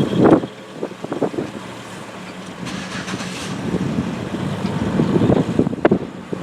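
Car driving along, with a steady low hum and irregular bumps and rattles, a loud knock right at the start and a sharp click near the end.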